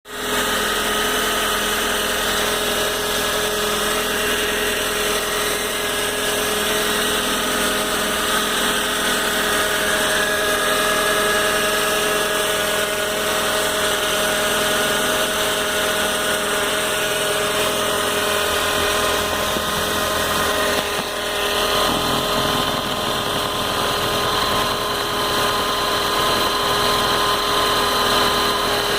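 Car engine running steadily with a noise made of several steady whining tones, which shift slightly about two-thirds of the way in. The owner hears this noise mainly in the morning, and it fades once the engine has run a while, so it is a cold-engine noise.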